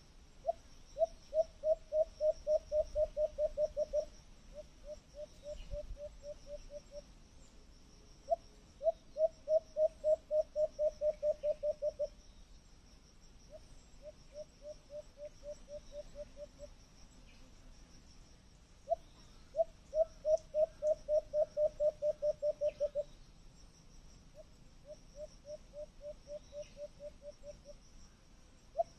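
A bird calling in runs of low hooting notes, about four a second. Each loud run of about three seconds is followed by a quieter run, and the pattern repeats three times. Insects trill steadily in the background.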